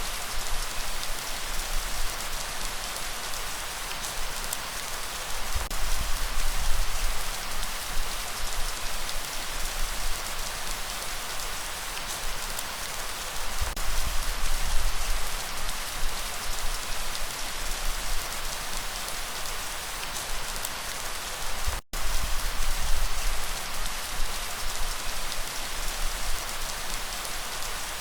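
Steady heavy rainfall with a deep low rumble that swells and eases. About three quarters of the way through, the sound cuts out completely for a split second.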